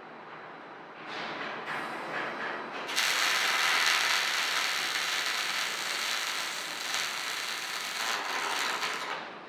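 Robotic welding arc laying one stitch of a series of stitch welds: a loud, even hissing crackle starts abruptly about three seconds in and cuts off shortly before the end, after a few seconds of quieter noise.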